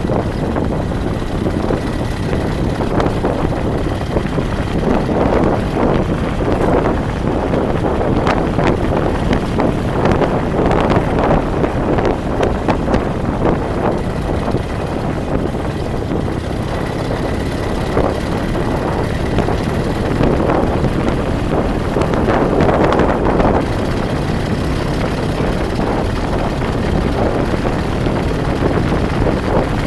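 Wind buffeting the microphone over the steady rumble of a moving vehicle on the road, with gusts swelling and fading several times.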